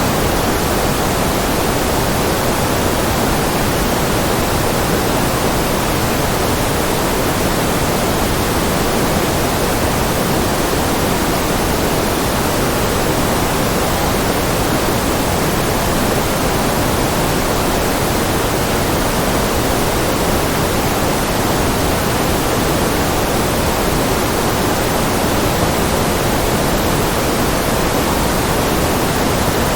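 Continuous generated white-noise track: an even, unchanging hiss with no breaks, slightly fuller in the lower and middle range.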